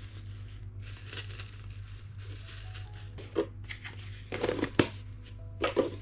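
Rustling and crinkling of items handled while tidying a kitchen cabinet, in a few short bursts with a sharp click in the middle, over soft background music.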